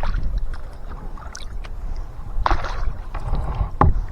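Kayak paddling: paddle blades splashing and dripping in the water, with a few sharp knocks and a short splash about halfway through, over a steady low rumble.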